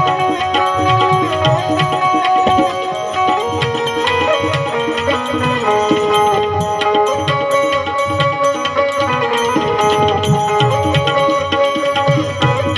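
Instrumental interlude of a Gujarati santvani bhajan: tabla playing a steady rhythm under a melody instrument holding and stepping between sustained notes, with no singing.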